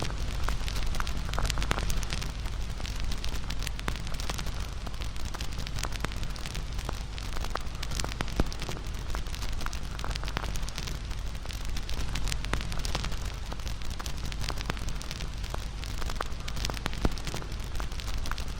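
Wood bonfire crackling, with many small snaps and pops over a steady low rumble; one sharper pop about eight seconds in.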